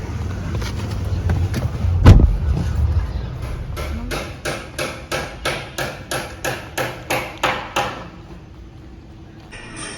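A heavy knock about two seconds in over a low rumble, then a steady run of sharp knocks, about three a second, for some four seconds.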